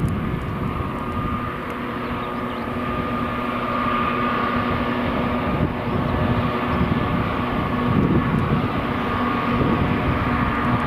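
Freight train running past: the locomotive's steady drone over the rumble of wheels on rail, growing gradually louder.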